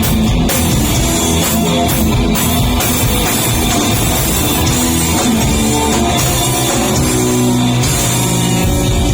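Rock music played live by a street busking band, with guitar and drum kit.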